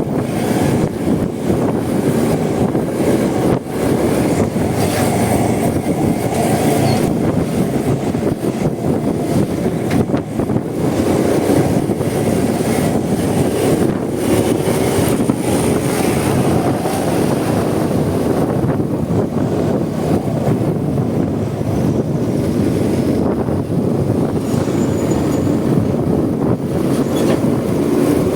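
Steady, loud wind rush and road noise from riding a Honda Supra X 125 motorcycle, with wind buffeting the microphone and the engine's running blended into it.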